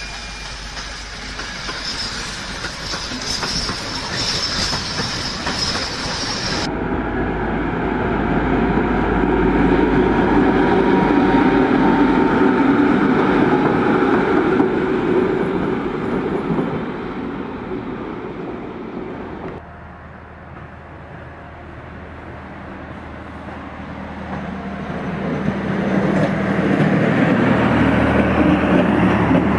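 Trains running on the rails, growing louder as a train comes close. The sound changes abruptly twice, where different recordings are cut together.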